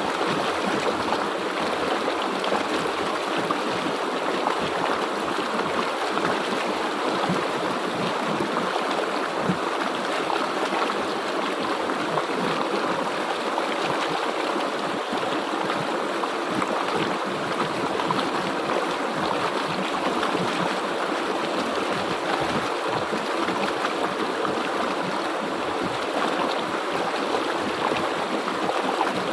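River water flowing steadily, a constant rush with no pauses or changes.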